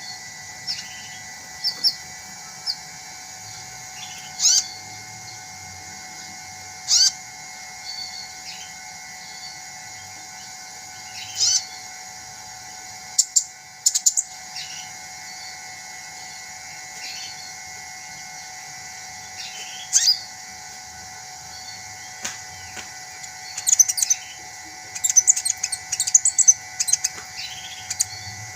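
A sunbird calling: short, sharp, high-pitched chirps at irregular intervals, turning into a quick run of rapid twittering near the end. A steady faint hum runs underneath.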